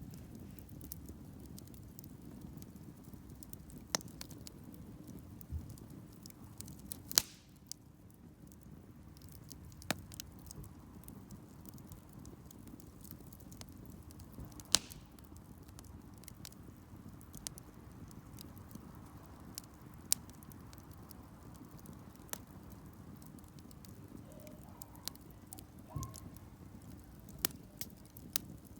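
Wood campfire crackling: irregular sharp snaps and pops over a low steady rumble of the burning fire, with two louder pops about 7 and 15 seconds in.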